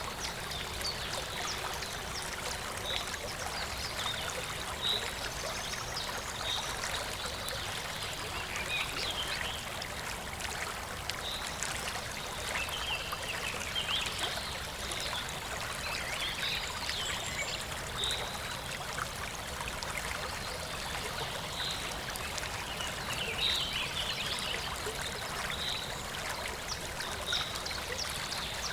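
Clear, shallow stream babbling and trickling steadily. Short high chirps come every second or two, with brief busier spells of chirping.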